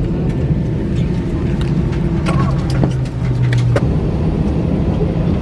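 Cabin noise of an Airbus A321 airliner: a steady, loud low rumble of engines and airflow, with scattered light clicks and knocks.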